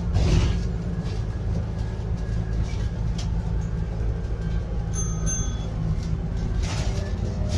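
Scania N280UD double-decker bus's biogas engine, heard from inside the bus as it drives, with a steady low drone and body rattles. Two short high beeps come about five seconds in.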